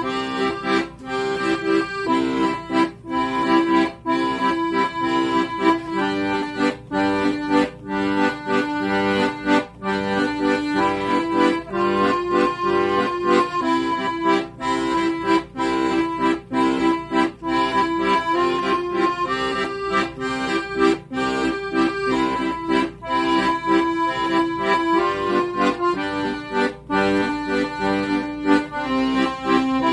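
Accordion playing a tune: held melody notes over a steady, rhythmic bass-and-chord accompaniment.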